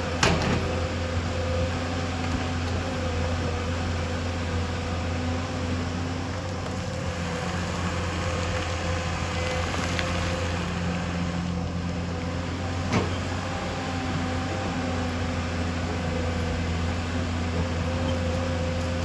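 Excavator's diesel engine running steadily under work, with a steady hydraulic-like whine over the drone and a couple of sharp metallic knocks, one right at the start and one near two-thirds of the way through.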